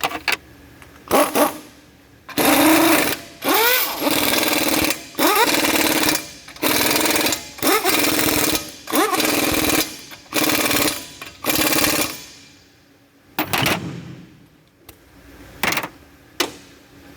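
Impact wrench hammering in a run of short bursts, about one a second, several opening with a rising whine as the tool spins up, then a few shorter bursts near the end. It is running suspension bolts in or out on the lower arm.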